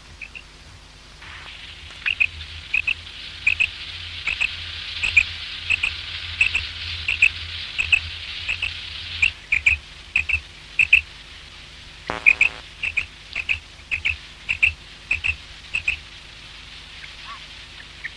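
Common quail calling: short, sharp, high notes, mostly in quick pairs, repeated over and over, with a brief buzzy rasp about twelve seconds in.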